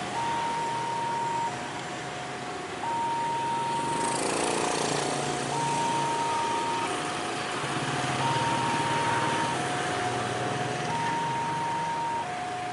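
Railway warning alarm sounding a steady high-low two-tone signal, each note about a second and a half long. Under it, a train runs past with a heavy engine rumble and wheel rattle that grows louder about four seconds in.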